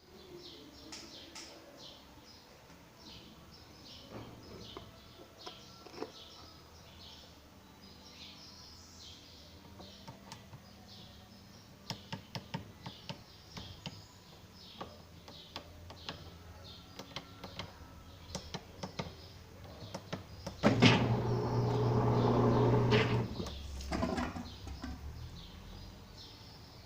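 Brastemp BWG10 washing machine running a motor for about two and a half seconds with a loud low hum, starting suddenly and fading off. Before it comes a run of sharp clicks, and birds chirp faintly throughout.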